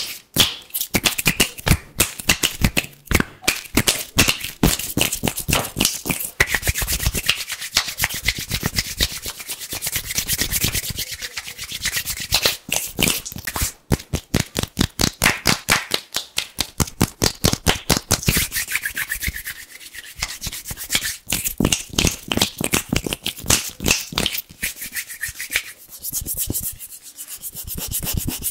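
Bare hands rubbed together fast and hard close to the microphone: a rapid run of dry, crisp swishing strokes, several a second, with a short break about halfway through.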